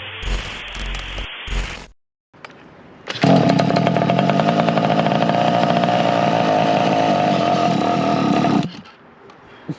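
A 1/5-scale RC car's two-stroke petrol engine running at high revs with a steady, loud buzz for about five seconds, starting about three seconds in and stopping abruptly near the end. Before it comes a couple of seconds of intro music.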